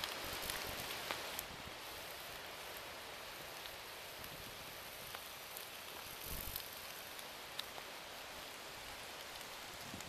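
A steady outdoor hiss with scattered faint crackles and ticks, and a soft low thump about two thirds of the way through.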